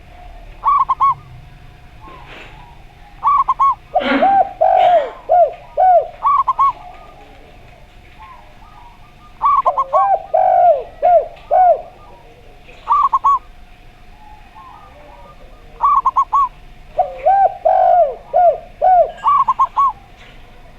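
Zebra dove (perkutut) and a second dove (derkuku) cooing in turn. Short groups of three quick higher coos repeat every few seconds. Longer runs of four or five lower, falling coos come three times, with a faint steady tone underneath.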